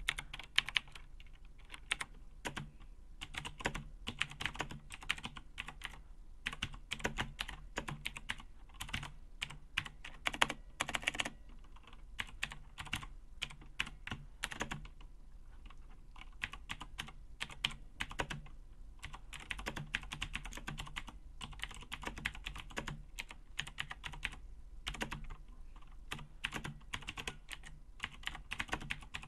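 Razer BlackWidow mechanical keyboard being typed on: a fast, uneven stream of key clicks and keys bottoming out, with a few denser bursts of keystrokes.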